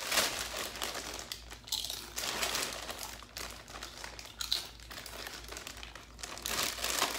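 Doritos chip bag crinkling and rustling as hands work at its top: a continuous run of crackles, loudest right at the start and again near the end.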